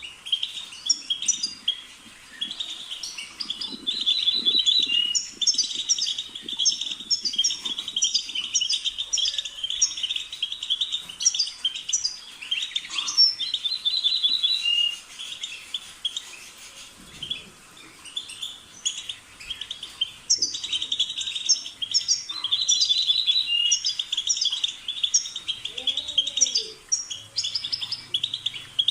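European goldfinch singing: a fast, continuous twittering song of rapid chirps and trills, easing off briefly about halfway through before picking up again.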